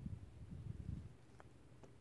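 Faint low rustling handling noise for about a second, followed by two soft clicks.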